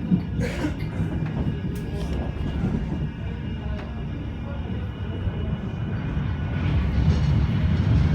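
Manchester Metrolink tram running: a steady low rumble of wheels on rail, growing louder over the last couple of seconds.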